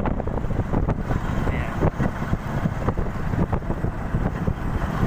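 A vehicle running with wind buffeting the microphone: a constant low rumble broken by rapid irregular flutters.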